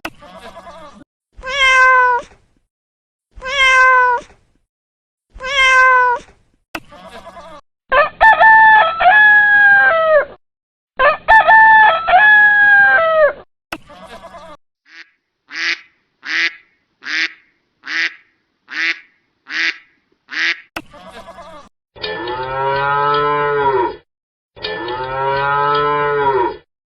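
A series of different animal calls one after another: three short calls, then two long calls, then a quick run of about seven short, high calls, and finally two long, lower calls.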